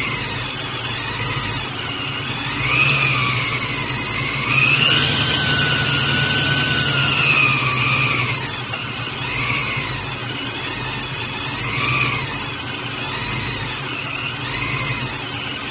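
LS-swapped V8 engine idling and being revved. Its pitch rises about two seconds in, holds high for a few seconds, then drops back, with three shorter rev blips after that.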